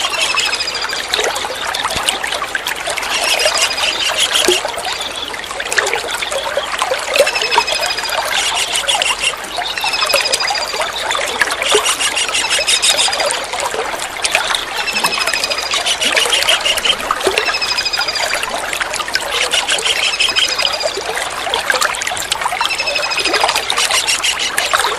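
Kingfisher calls repeating about every two seconds, each a short high whistle sliding downward together with a fast stuttering trill, over steady trickling water.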